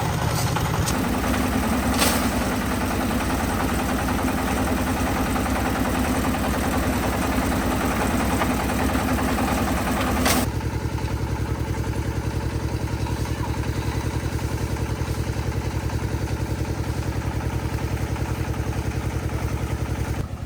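Concrete mixer's engine running steadily with an even pulse, stepping up in pitch about a second in; about halfway through the sound changes abruptly and turns duller.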